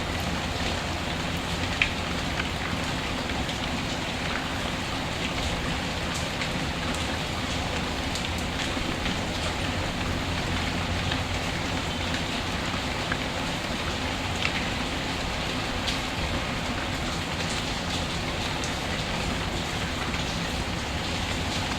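Steady rain falling, with a few sharp crackles from a wood fire in a fireplace.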